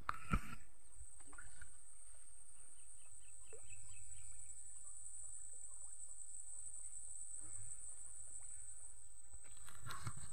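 Rural outdoor ambience with a bird chirping a quick run of repeated notes about three seconds in, over a steady high-pitched drone. There is a single thump near the start, and rustling in the grass near the end.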